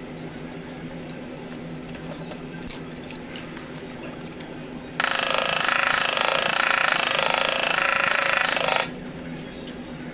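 A power tool runs for about four seconds, starting and stopping abruptly, with a fast buzzing pulse.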